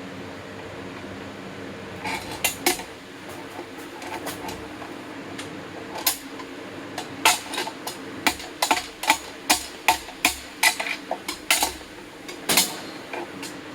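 Hammer blows on a steel bearing driver, knocking a camshaft bearing out of a Case 207D engine block: sharp metallic strikes with a short ring. There are a few strikes about two seconds in, then a long irregular run of blows, roughly one or two a second, from about six seconds in almost to the end.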